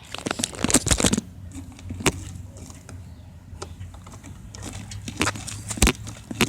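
Handling noise: a quick run of clicks and knocks in the first second, then single sharp knocks every second or so, as things are handled close to the microphone.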